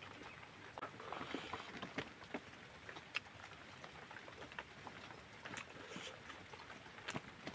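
Close-miked eating sounds: irregular wet clicks and smacks of chewing rice and pork, with fingers gathering rice on a banana leaf.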